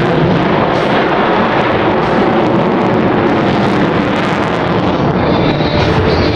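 Loud, steady aircraft engine noise with wind buffeting the microphone.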